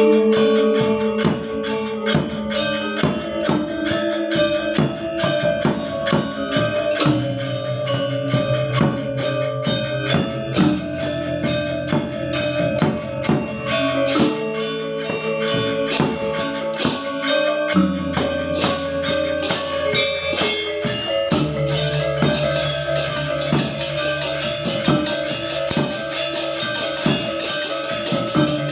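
Balinese gamelan gong ensemble playing: ringing bronze metallophone and gong tones under fast, dense cymbal-like strokes, with the low notes changing every few seconds.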